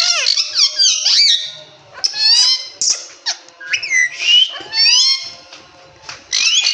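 Indian Ringneck parakeet calling: several bursts of high, quickly rising and falling squawks and whistles, with short pauses between them.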